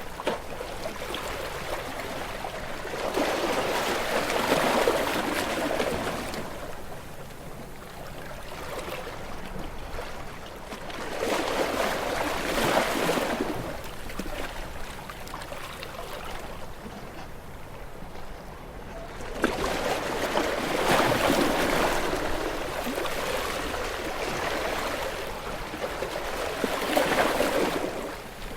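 Sea waves washing onto a shore, the surf swelling and falling away about every eight seconds, four times.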